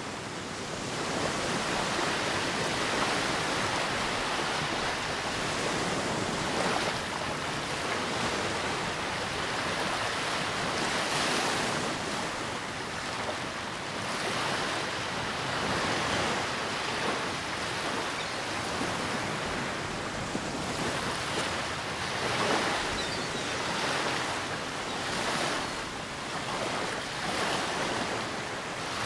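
Ocean surf washing on a beach, a steady rushing that swells and eases every few seconds, with wind.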